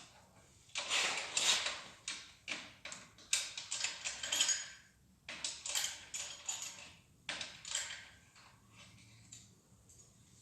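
Metal engine parts being handled: an irregular run of clicks, clinks and knocks, with scraping in between, that thins out and goes quiet for the last few seconds.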